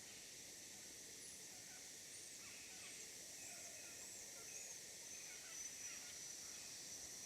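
Faint dusk forest ambience: a steady high insect drone, with a run of short, high, arching chirps through the middle.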